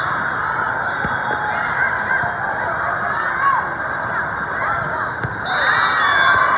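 Sneakers squeaking on a gym floor during a volleyball rally, in many short squeals, with a few sharp smacks of ball contact over steady crowd noise. The crowd gets louder near the end.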